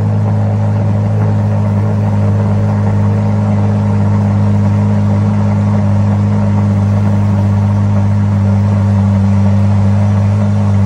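Chevrolet Corvette C8 Z06's 5.5-litre flat-plane-crank LT6 V8 idling steadily through its quad exhaust after a cold start, a loud, even low note that holds one pitch.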